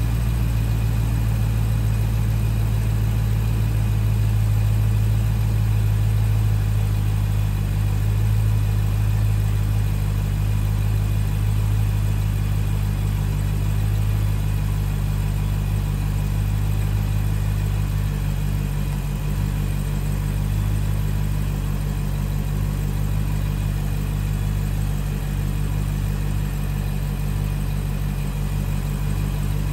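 2022 Dodge Challenger Scat Pack's 392 (6.4 L) Hemi V8 idling steadily with the hood open, just started after an oil catch can install to check that everything is properly assembled. The idle eases slightly about two-thirds of the way through.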